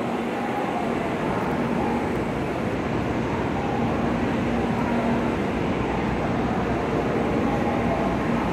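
Steady hum and whir of an N700S Shinkansen standing stopped at the platform, its onboard equipment running. Faint tones come and go through the noise.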